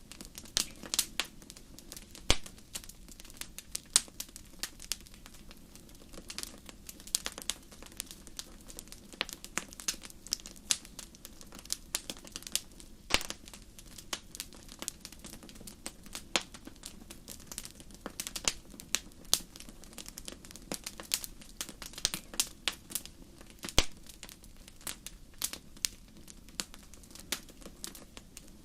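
Wood fire in a fireplace crackling and popping: irregular sharp pops, a few louder snaps, over a low steady rush of the flames.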